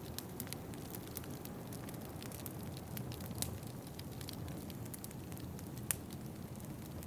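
Wood fire crackling in a fireplace: irregular sharp pops and ticks, two of them louder, about three and a half and six seconds in, over a steady low rushing noise.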